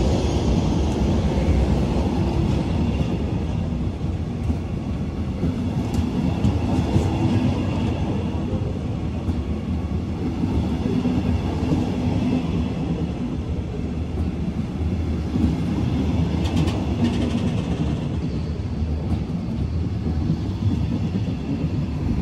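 Regional train hauled by a DB Class 145 electric locomotive passing at close range, its double-deck coaches rolling by with a steady rumble of wheels on rail. A few brief clatters come through, the first about six seconds in and more later on.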